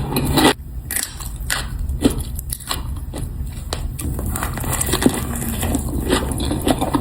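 Close-miked eating: chewing and crunching of food, with scattered crisp bites and mouth clicks. The sound drops abruptly about half a second in, then carries on more quietly.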